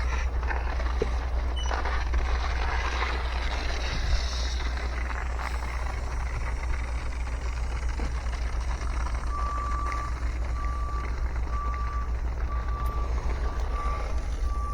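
Steady low rumble of a running vehicle, joined about nine seconds in by an electronic warning beep repeating about twice a second at one steady pitch.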